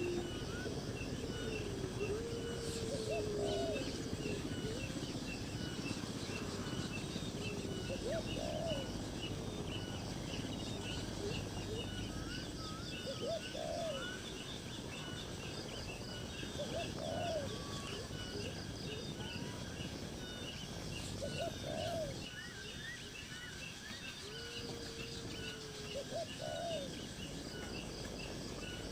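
Birds calling: a low, arched call repeating about every four to five seconds, with a few longer low gliding calls, over a constant background of many small high chirps.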